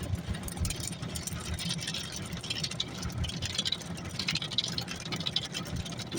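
Automatic car wash running, heard from inside the car's cabin: a steady low rumble of engine and machinery, with uneven bursts of hissing as spray hits the car.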